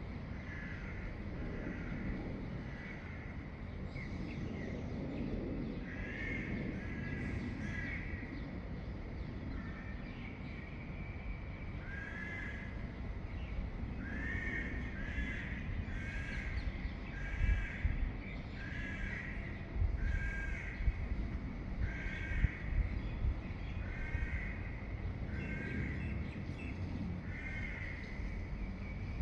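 Birds calling at dawn: a run of short calls repeated about once a second, over a steady low rumble with a few low thumps in the second half.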